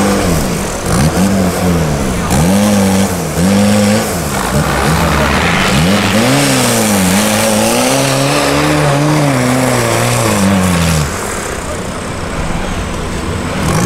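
Off-road competition 4x4 engines revving hard in repeated bursts, pitch rising and falling again and again, as the vehicles claw through a steep sand pit. The revving drops away about eleven seconds in, leaving a lower, steadier engine noise.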